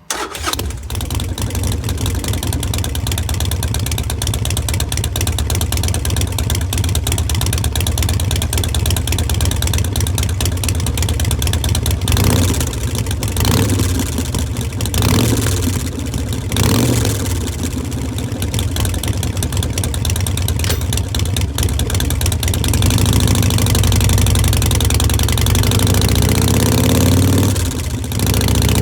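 2018 Harley-Davidson Iron 1200's air-cooled V-twin through Vance & Hines Short Shots slip-on mufflers, starting suddenly and settling into a lumpy idle. It is revved briefly several times about halfway through, then runs a little louder and steadier near the end.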